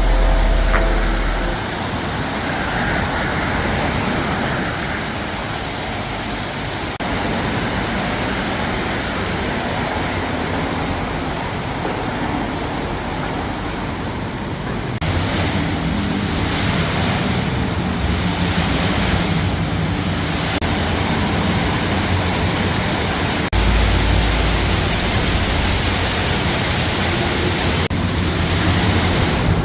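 A loud, steady rushing noise with no clear tone, such as wind on a microphone or a moving vehicle, changing abruptly several times as separate clips are joined, with a deeper rumble in the last few seconds.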